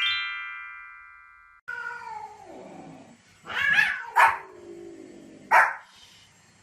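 A falling chime glissando rings out and fades over the first second and a half. Then a dog gives a long whine that slides down in pitch, followed by three short barks.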